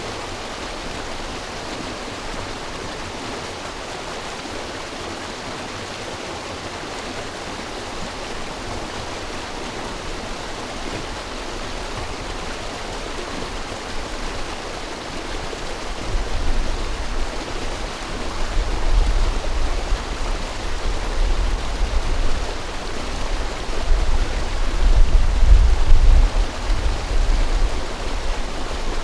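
River water rushing steadily. About halfway through, a low, uneven rumble comes in and swells, loudest near the end.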